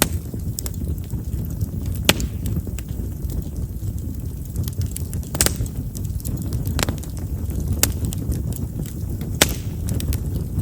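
Chestnut firewood burning in an open bonfire, crackling with sharp pops every second or two over a steady low rumble. Chestnut's large wood vessels make it known as a popping firewood.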